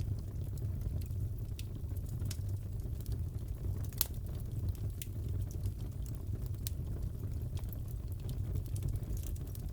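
Fireplace crackling: a steady low rumble of burning with scattered pops and snaps, one louder pop about four seconds in.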